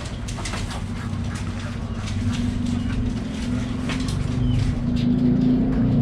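Budgerigars chirping and chattering in many short, sharp calls over a steady low hum that grows louder.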